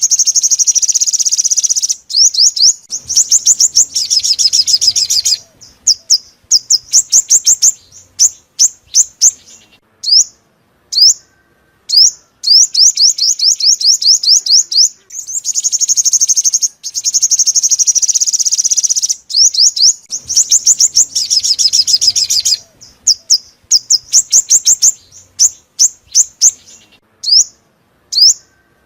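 Sunbird song: loud, high-pitched rapid trills and runs of quick downward-sweeping chirps, a repeating sequence of phrases typical of a looped lure recording.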